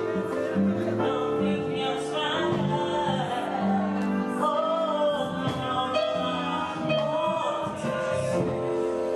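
Gospel song: a voice singing over sustained keyboard chords.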